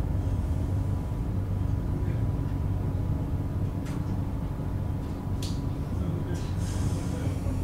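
Interior sound of a JR 101 series electric train car: a steady low rumble, with a couple of sharp clicks about four and five and a half seconds in and a short hiss near the end.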